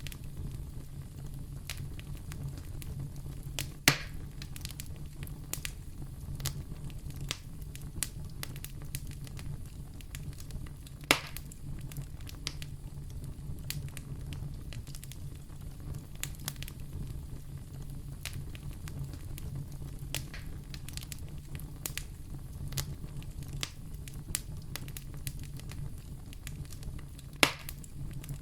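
Wood fire burning in a fireplace, crackling steadily over a low rumble, with three louder pops about 4, 11 and 27 seconds in.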